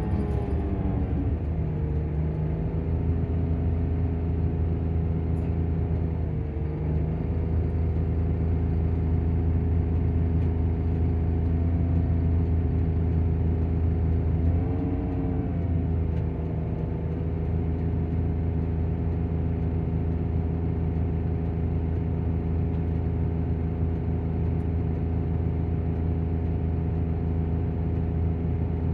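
Volvo coach's engine running at a steady idle with its engine cooling fan whirring. The pitch drops and settles in the first second, then wavers briefly twice, about six and fifteen seconds in.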